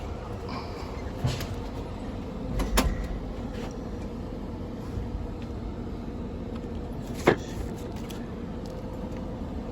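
Steady low machinery hum with three sharp knocks: a light one about a second in, the loudest near three seconds in, and another about seven seconds in.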